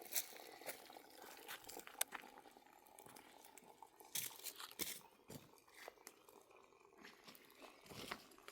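Faint, scattered crunching and crinkling clicks at irregular intervals, like things being handled, with the sharpest ones about two and four seconds in.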